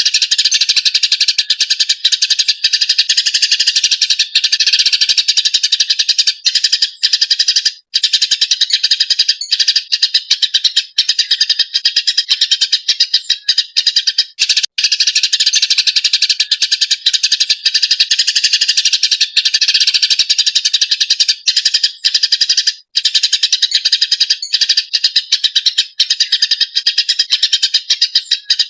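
Eurasian tree sparrow ('burung gereja') calling agitatedly: a fast, dense, unbroken stream of chirps with a few brief gaps.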